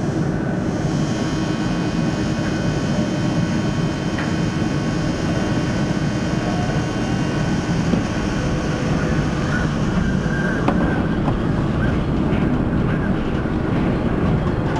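Düsseldorf SkyTrain suspended people-mover car running, heard from inside: a steady rumble with a cluster of steady high tones that stop about eleven seconds in.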